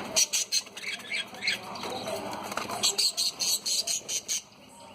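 Budgerigars chirping and chattering in quick, high chirps that come thick and fast, then fall away near the end.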